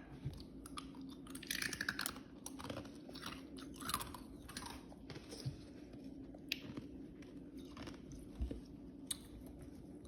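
Close-up chewing and wet mouth sounds of someone eating soup, with irregular smacks and clicks throughout.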